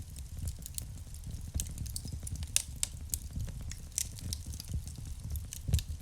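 Wood fire crackling in a fireplace: irregular sharp pops and snaps over a steady low rumble of the flames, with a louder pop just before the end.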